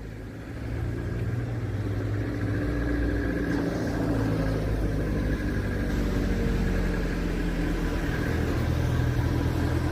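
A motor vehicle's engine running steadily as a low hum, growing louder about a second in and then holding.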